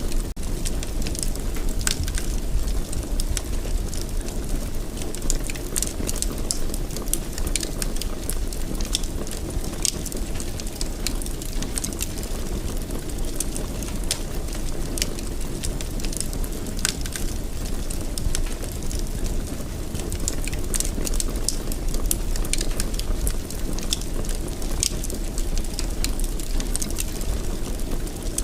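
Wood fire burning in a fireplace: a steady low rumble of the flames with frequent sharp crackles and pops at irregular moments.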